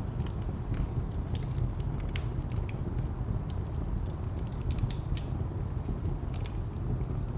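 Wood fire crackling, with irregular sharp pops and snaps, over a steady low rumble of distant traffic.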